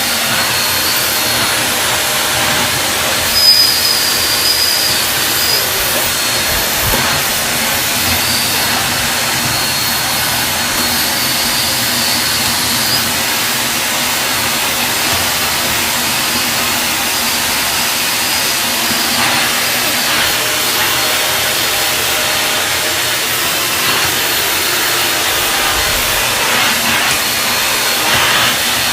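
Deerma DX115C 600 W corded vacuum cleaner running steadily at full suction, a loud motor with a high whine over a rushing hiss, picking up paper scraps with small changes in pitch as the nozzle moves.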